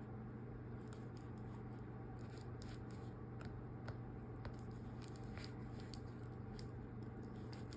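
Faint scattered small ticks and rustles of hand-sewing a cloth doll's nose, needle and thread drawn through the fabric, over a steady low hum.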